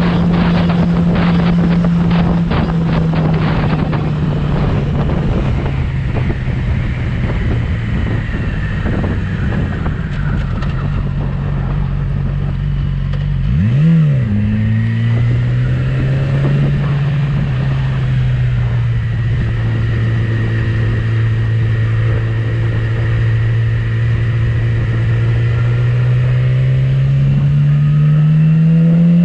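Yamaha R6 motorcycle's inline-four engine running under way. About halfway through its pitch jumps briefly and drops back to a lower note, which then climbs slowly toward the end.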